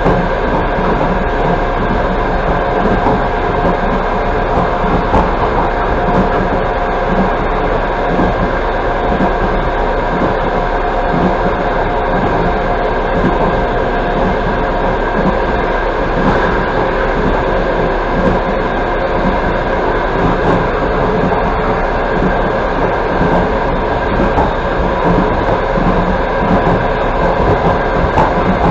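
Steady rumble and wheel-on-rail noise of a moving express passenger train, heard from inside the carriage, with a few steady humming tones over it.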